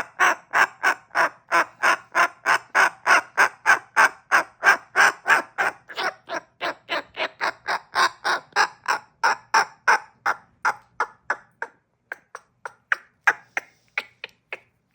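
Pet cockatoo singing: a long, rhythmic string of short, repeated calls, about four a second, with a brief pause near the end.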